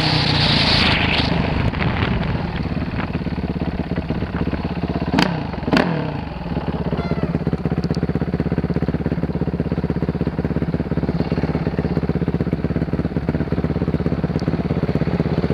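Dirt bike engine coming down off the throttle and then idling steadily, with two quick sharp blips about five and six seconds in.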